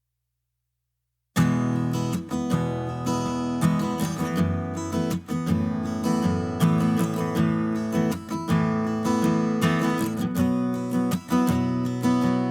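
Background music led by acoustic guitar, plucked and strummed, starting abruptly after a brief silence.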